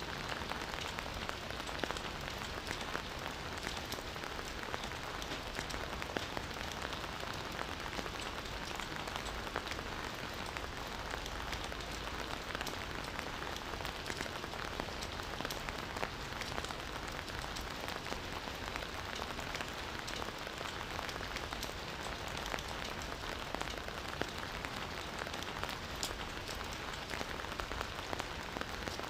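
Steady rain falling on foliage and ground, an even hiss with many individual drops ticking throughout.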